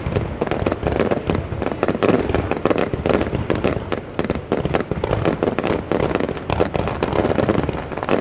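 Dense, continuous crackling of many fireworks and firecrackers going off at once, sharp pops overlapping one another without a break over a steady rumble of more distant bangs.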